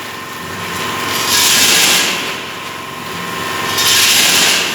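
YILPAK DP-250 vertical packaging machine running through its bagging cycle: a steady mechanical hum with a loud hissing rush about every two and a half seconds, twice here, each lasting about a second.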